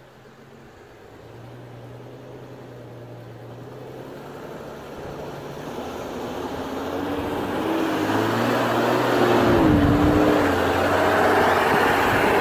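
A four-wheel-drive vehicle's engine approaching and growing steadily louder, its note rising and dipping about nine to ten seconds in.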